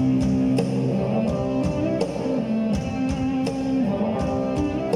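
Live punk rock band playing an instrumental passage between sung lines: guitars and bass holding chords over a steady drum beat.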